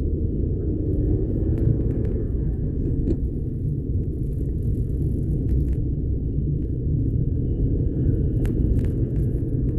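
Steady low rumble of a car on the move, heard inside the cabin, with a few faint clicks.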